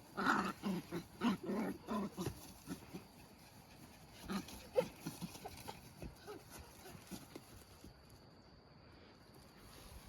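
An animal calling: a quick run of short calls in the first two seconds or so, then a few more calls around four to five seconds in.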